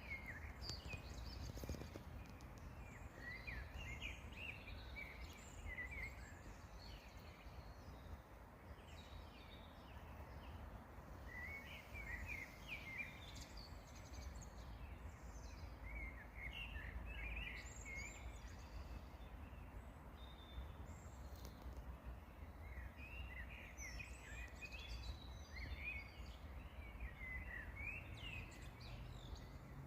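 Songbirds singing in bouts of quick, high chirps every few seconds, over a faint, steady low rumble.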